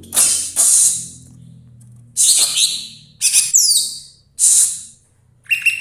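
A cucak ijo (green leafbird) singing: loud, sharp, high phrases about once a second, one sliding down in pitch, then a quick run of chirps near the end.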